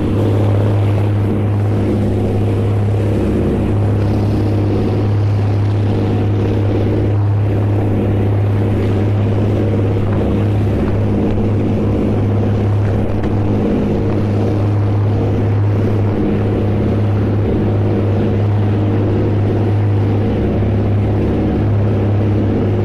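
An engine running steadily at constant speed, a loud low drone with a stack of steady overtones over a rushing haze.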